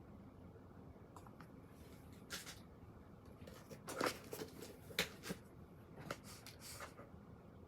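A few short rustles and clicks over a low, steady room noise, the loudest about four and five seconds in.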